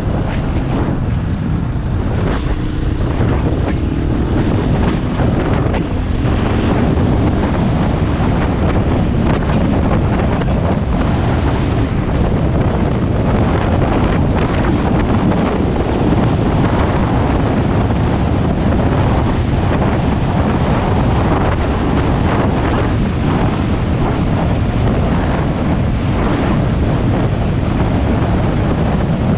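Loud, steady wind rush on the microphone of a moving motorcycle, with the KTM 500 EXC's single-cylinder engine running underneath and rising faintly in pitch a few seconds in.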